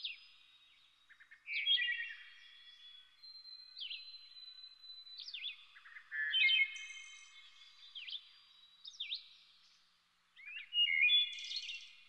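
Songbirds singing: a series of short chirping and whistled phrases with quick pitch sweeps, coming in bursts with short pauses between, loudest about a second and a half in, around six and a half seconds in, and near the end.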